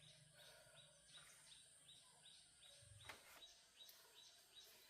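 Faint rural ambience: a small creature chirping about three times a second over a thin steady high buzz, with one soft knock about three seconds in.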